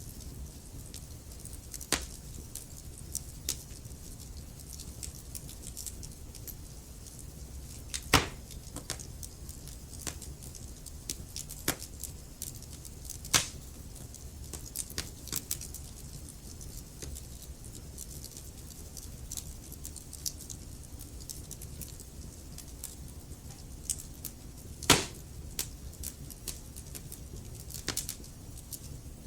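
Wood fire burning in a fireplace: a low steady rumble of flame with irregular sharp crackles and pops from the logs, the loudest pops about 8, 13 and 25 seconds in.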